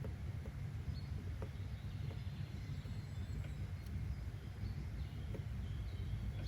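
Outdoor nature ambience: a steady low rumble under occasional short, high bird chirps and faint ticks.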